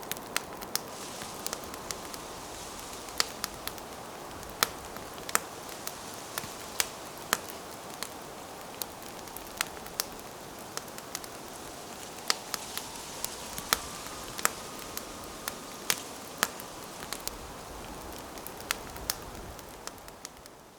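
Wood campfire burning: a steady hiss broken by sharp, irregular crackles and pops, fading out near the end.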